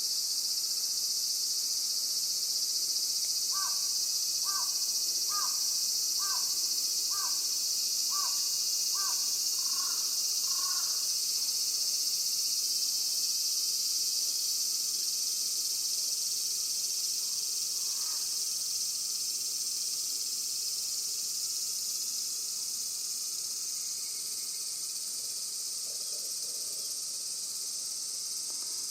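Steady high-pitched chorus of insects, such as crickets, shrilling throughout. A bird calls a run of about nine short notes, roughly one a second, for several seconds, then gives one more call later.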